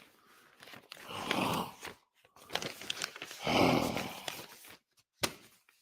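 A person's breathy, disheartened vocal sound effects: two long sighing exhalations, the first about a second long and the second about two seconds long, with no words.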